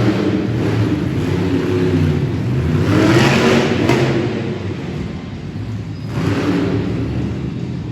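Monster truck's supercharged V8 engine revving hard in repeated surges. It is loudest about three seconds in, eases off around five seconds and surges again just past six.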